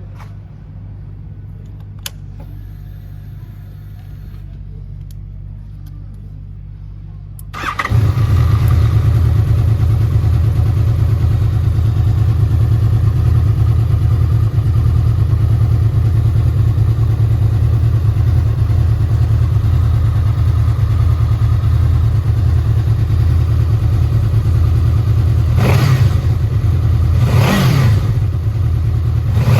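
Honda VFR800F's V4 engine. A low steady hum for the first seven seconds or so, then a sudden jump, about eight seconds in, to a much louder steady idle. Near the end come two quick throttle blips that rise and fall in pitch.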